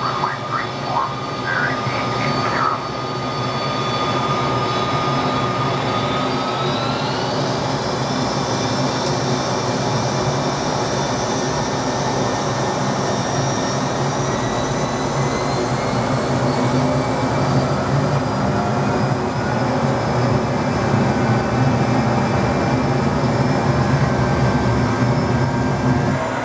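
McDonnell Douglas DC-10's jet engines spooling up for takeoff: a whine climbs in pitch about seven seconds in and then holds high over a loud, steady rumble.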